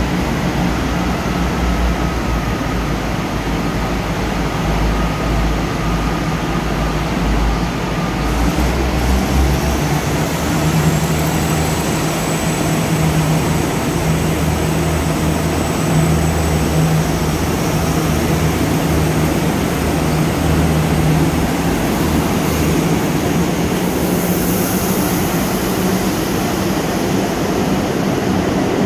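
Mugunghwa-ho passenger train pulling out of the station: a steady low engine drone and the rumble of the moving coaches, the drone changing pitch and growing stronger about ten seconds in as the train gets under way.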